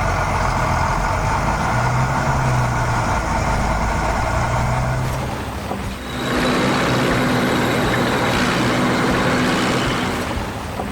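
Heavy construction-vehicle engine running steadily. At about six seconds it gives way to a different engine sound.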